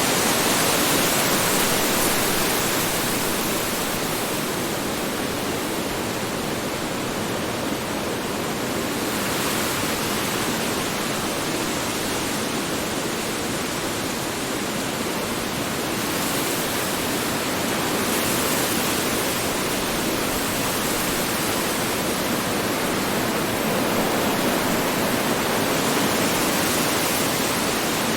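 Strong wind blowing as a steady rushing noise, swelling and easing gently every several seconds.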